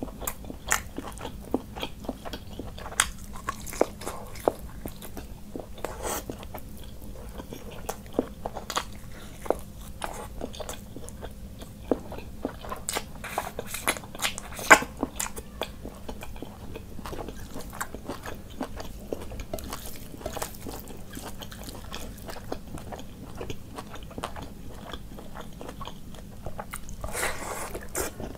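Close-miked eating by hand: biting and chewing curried meat and rice, with many wet mouth clicks and smacks and occasional crunches. The sharpest click comes about halfway through, and there is a longer sucking or slurping sound near the end.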